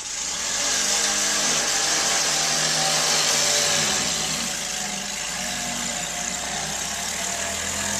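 An engine running steadily under a loud hiss, starting abruptly; its pitch shifts a little around the middle and then holds.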